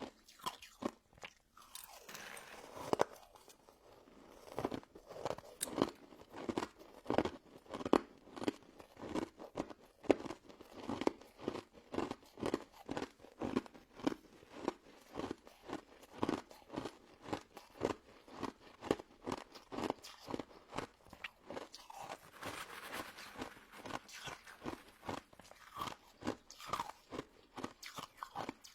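Close-miked chewing of a crunchy crystal snow ice dessert: a steady run of sharp, crisp crunches, about two a second, as the icy pieces are bitten and broken between the teeth.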